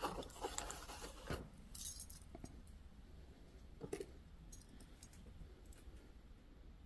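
Small pieces of metal jewelry clinking and jingling as they are picked through and handled, in short clusters of light rattles and clicks that thin out to a few faint ticks in the second half.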